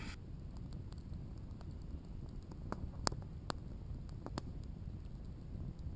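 Campfire crackling, with a handful of sharp pops spread through the middle and near the end, over a low rumble of wind on the microphone.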